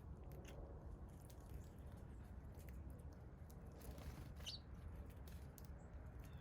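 Faint backyard ambience with a low steady rumble, scattered small ticks, and one short high songbird chirp about four and a half seconds in.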